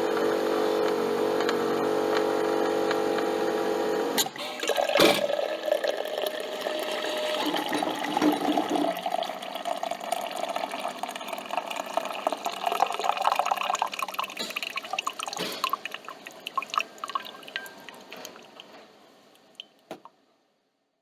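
Coffee machine motor humming steadily, then cutting off about four seconds in, with a click a second later. Coffee then drips and trickles, slowly fading away.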